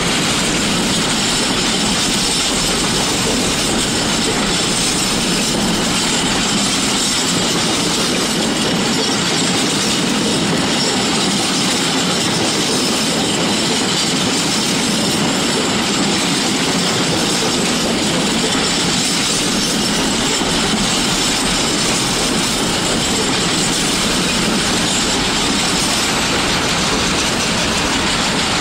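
Container freight wagons rolling past close by: the steady noise of steel wheels running on the rails, unchanging in level.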